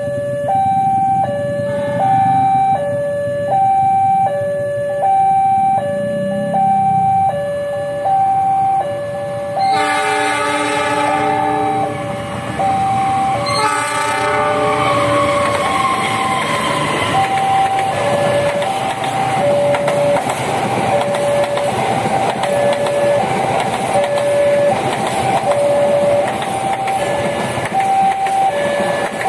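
A level-crossing warning alarm sounds throughout, a steady two-tone alternation. About ten seconds in, the approaching CC 206 diesel locomotive sounds its horn in a chord, first a long blast of about two seconds and then a short one. The passenger train then runs past, its engine and wheels making a loud rushing noise under the continuing alarm.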